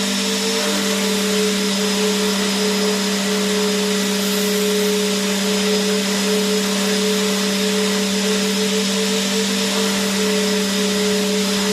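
Vacuum cleaner motor running continuously: a steady low hum and a higher whine over an even rushing hiss of air.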